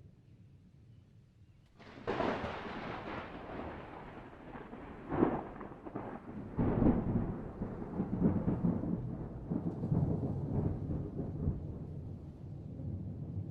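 Thunder: a sudden sharp crack about two seconds in, then a long rolling rumble with louder peals about five and seven seconds in.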